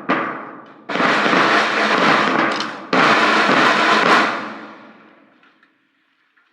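School band drums and percussion playing: a sharp strike, then two long loud crashes. The second rings out and fades away about five seconds in, ending the piece.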